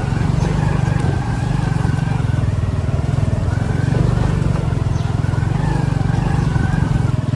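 Vehicle engine running steadily at an even pace, a loud constant low hum with a faint wavering whine above it.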